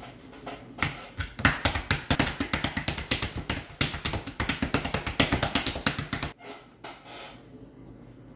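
Homemade slime being squeezed and worked by hand, giving a fast, irregular run of sharp clicks and pops for about five seconds that stops abruptly near the end.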